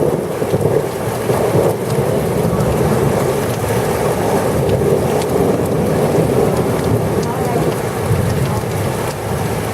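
Heavy rain falling steadily in a thunderstorm, with a low rumble beneath it and faint scattered drop ticks.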